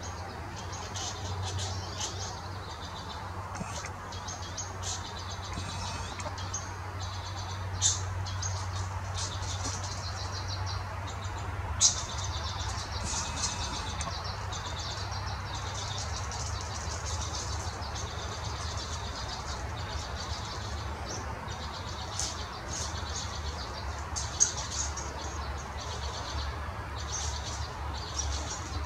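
Small birds chirping and tweeting over a steady low outdoor rumble, with a few sharp clicks, about three in all, standing out above the rest.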